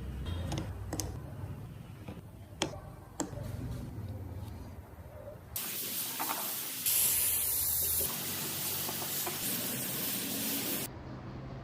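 A pressurised spray hissing steadily for about five seconds, starting and stopping abruptly and louder in its middle stretch. Before it come a few light clicks over a low hum.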